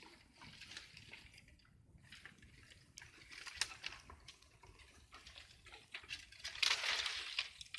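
Bonfire crackling: scattered sharp pops, with a louder, denser burst of crackles near the end.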